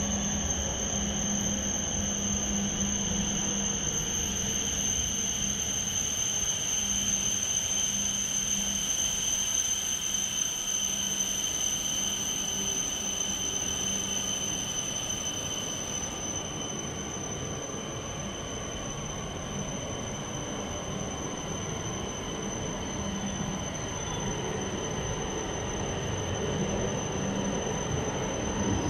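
E5 series Shinkansen train running into the platform and slowing to a stop, a steady high-pitched whine running under the rolling noise.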